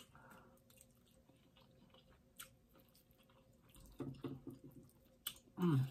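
Soft chewing of a mouthful of scrambled eggs, with small wet mouth clicks. About four seconds in come a few short hums, then a louder hummed "mm" that rises in pitch at the very end.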